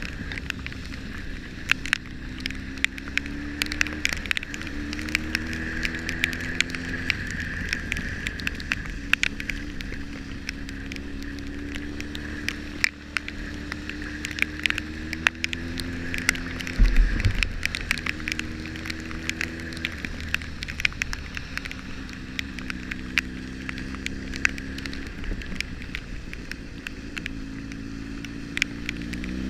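Motorcycle engine running under way, its pitch climbing and dropping in steps through gear changes, with frequent sharp ticks throughout, taken for rain striking the camera. A heavy low thump about seventeen seconds in.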